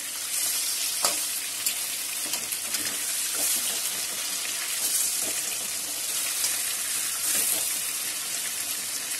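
Marinated chicken pieces sizzling in hot oil in a metal kadai, with a flat metal spatula scraping and knocking against the pan as the pieces are turned over. A sharp knock comes about a second in.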